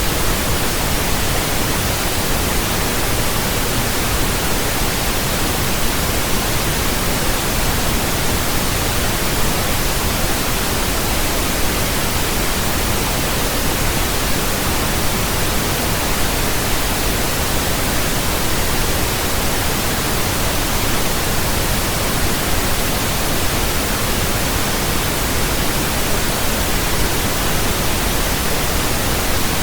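Steady synthetic pink noise: an even, unchanging hiss with a deeper rumble than white noise.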